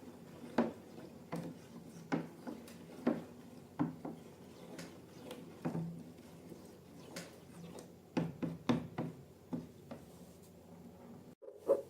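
Scattered light taps and knocks of objects being handled, roughly one every second, with a quick flurry of them about eight to nine seconds in.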